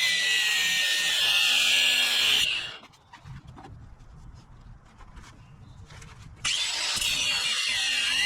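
A power tool running with a wavering whine. It stops about two and a half seconds in, leaving faint clicks and low rumble, and starts again abruptly near the end.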